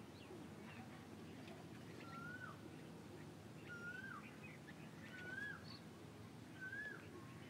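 Faint bird calls: a short whistled note that rises and then drops, repeated four times about every second and a half, with fainter higher chirps, over low background noise.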